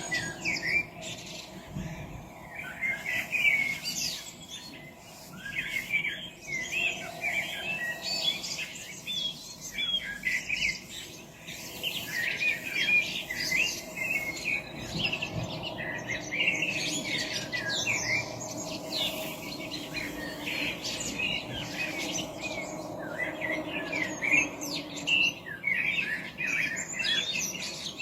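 Many small birds singing and chirping at once in woodland, a dense overlapping chorus of short high calls and trills, with a faint steady background hum.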